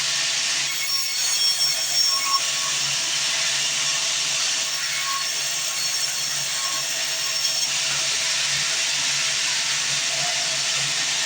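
Sawmill bandsaw blade cutting through a log: a steady hissing rasp that shifts about a second in and again after about eight seconds.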